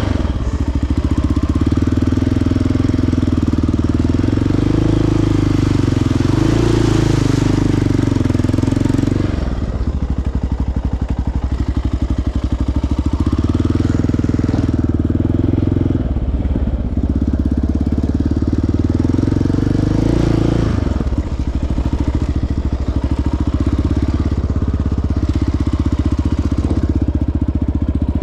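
Sport quad's single-cylinder four-stroke engine running on a trail, the throttle opening and closing. It pulls steadily, then eases off about nine seconds in, pulls again, and eases off twice more.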